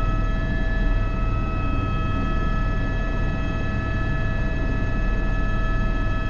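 Airbus H125 (AS350 B3) helicopter hovering low while setting down a sling load, heard from the cockpit: its single turboshaft engine and gearbox give a steady whine over the low, pulsing rumble of the rotors.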